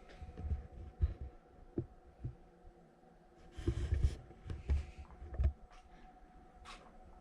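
Old CNC lathe with a faint steady hum in two tones, under a series of irregular low thumps, the loudest clustered in the middle along with a brief hiss.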